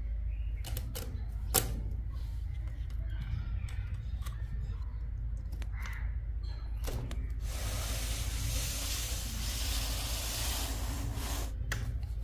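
Sharp metallic clicks and knocks from a small home-built metal machine over a steady low hum, with a hissing whirr lasting about four seconds after the middle.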